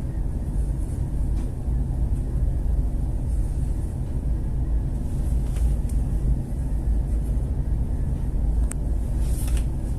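A ship's engine running with a steady low drone, with a few faint clicks over it.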